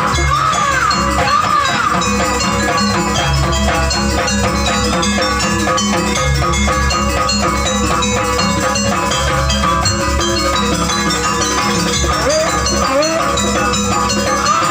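Gamelan music accompanying a Banyuwangi janger dance: a fast, dense pattern of struck metal tones over drums.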